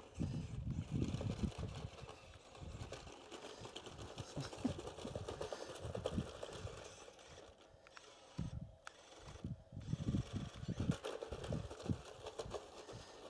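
Small radio-controlled toy dump truck driving about, with irregular low knocks and rattles and no steady motor tone.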